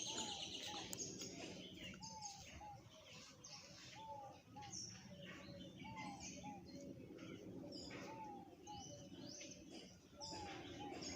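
Several birds calling faintly: a short rising-and-falling call followed by a smaller one, repeated every second or so, among scattered higher chirps, over a low steady background hum.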